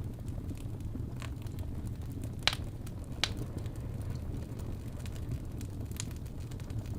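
Wood fire burning in a fireplace: a steady low rumble from the flames, with four sharp crackling pops from the wood, the loudest two close together near the middle.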